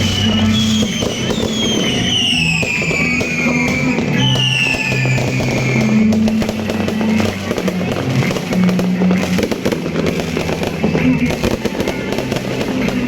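Fireworks crackling and popping continuously, with several whistling shells that glide down in pitch in the first few seconds. Music with a low, shifting bass line plays underneath.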